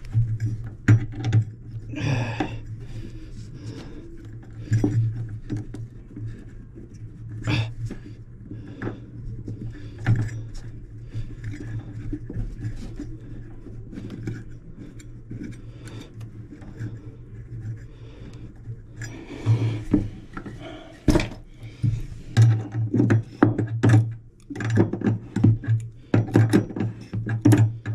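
Clinks, knocks and scrapes of a wrench and metal fittings as faucet supply lines are connected and tightened under a sink, over a steady low hum.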